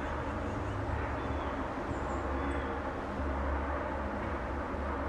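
Steady outdoor ambience: a constant low rumble with a haze of noise, and a few faint short high chirps over it.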